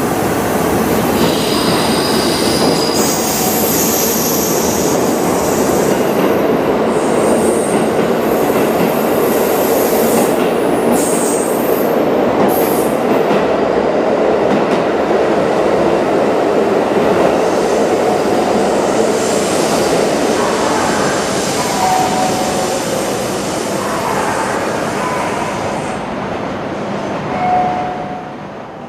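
A train rolling along a station platform, the steady rumble of wheels on rail joined by high-pitched wheel squeal through the first half. The noise eases off over the last several seconds.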